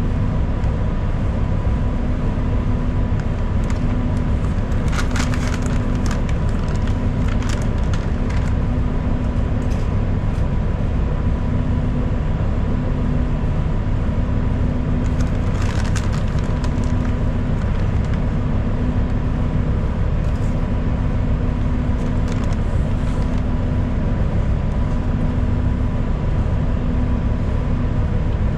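Inside a moving city bus: a steady low engine and road drone, with a faint steady whine above it. Clusters of sharp rattles come about five seconds in and again around the middle.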